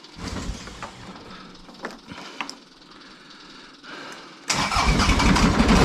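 A few faint clicks, then about four and a half seconds in a tractor engine is cranked and starts up, running loudly. The tractor has been sitting unused for a while.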